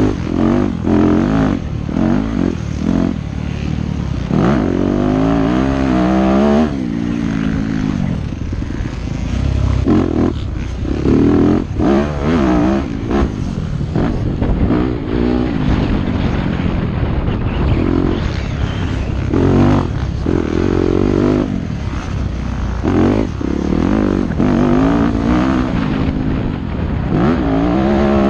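Yamaha YZ250F four-stroke single-cylinder dirt bike engine revving hard and dropping off again and again as the bike accelerates, shifts and backs off through a motocross track.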